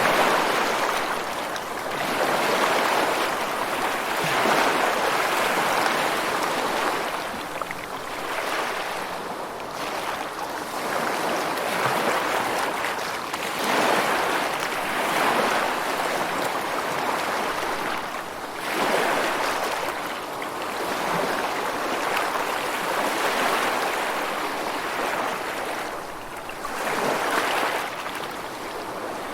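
Rushing water with no music or tones, swelling and ebbing every few seconds.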